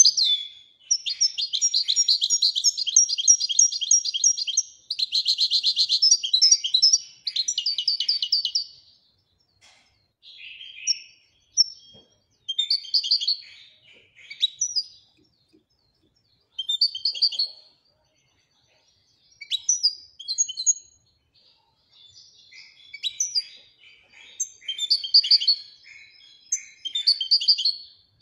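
Moroccan goldfinch singing: dense, rapid twittering trills for about the first nine seconds, then shorter broken phrases with silent pauses between them, in the song style keepers call 'louidani'.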